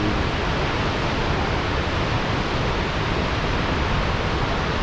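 Steady rushing of fast-flowing water, an even hiss and rumble with no breaks.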